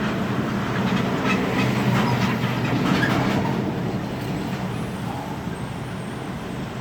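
Heavy garbage truck running with a low rumble and scattered metallic clanks and rattles, getting louder for about three seconds and then fading.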